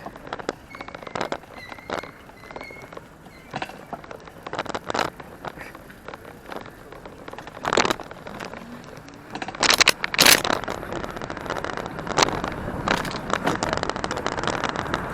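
Ride noise on board a moving Sinclair C5: irregular clicks and knocks, with louder rushes of noise about eight and ten seconds in and a steadier hiss toward the end.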